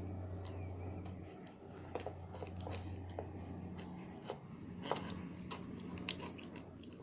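Great Pyrenees puppy chewing its food, irregular crisp clicks and crunches, over a low steady hum that fades out about four seconds in.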